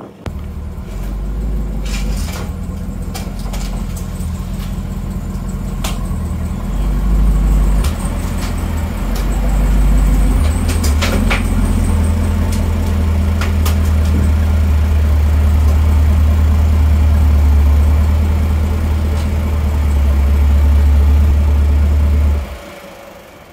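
Twin-turbocharged C8 Corvette's 6.2 L LT2 V8 running with a deep low drone that shifts as the car is moved at low speed, then holds steady at idle with a few sharp clicks over it. It shuts off abruptly near the end.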